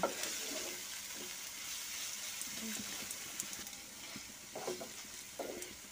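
Onion-tomato masala with ground spices frying on a low flame in a non-stick pan, a steady soft sizzle, as a wooden spatula stirs and scrapes through it. This is the roasting (bhuna) stage of the masala.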